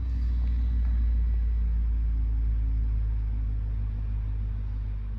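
Low rumble of a vehicle engine with a faint steady hum above it. It swells in the first second and then slowly fades.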